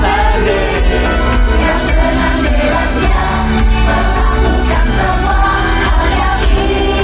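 Pop song performed live and played loud through a PA: a group of women singing together over a backing track with a heavy, steady bass.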